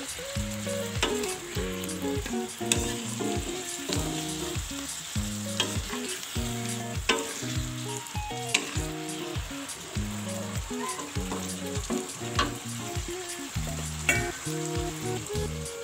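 Chicken pieces in sweet soy sauce sizzling in a ceramic-coated wok as a plastic spatula stirs and scrapes them, with a sharp knock of the spatula on the pan every second or two.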